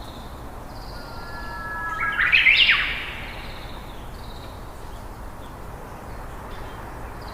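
Birds chirping: short high trills repeat throughout, and a louder whistled phrase of rising sweeps comes about two to three seconds in.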